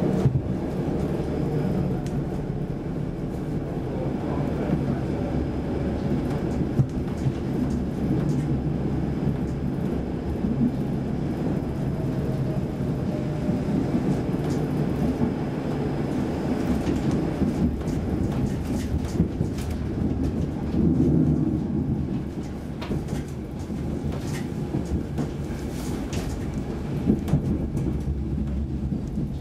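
Saltsjöbanan C10/C11 electric train running, heard from inside the carriage: a steady rumble of wheels on the rails, with occasional short clicks and knocks.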